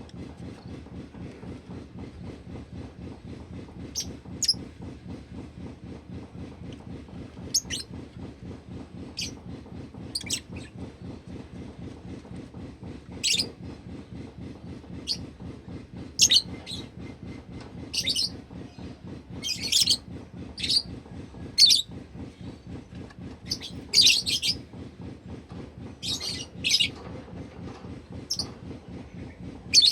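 Pet lovebird giving short, shrill chirps, a few scattered at first and then coming more often in the second half. Under them runs a steady low hum with a fast pulse.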